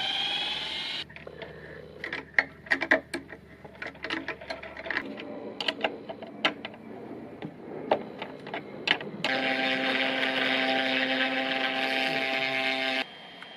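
Irregular sharp knocks and taps for several seconds, then a steady machine hum that cuts off abruptly near the end.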